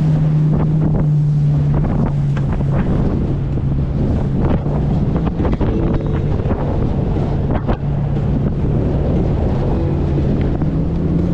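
90-horsepower Evinrude outboard motor on an inflatable Thundercat boat running steadily, its pitch dipping briefly now and then, as the boat rides rough swell. Heavy wind buffets the microphone, with many short slaps of water against the hull.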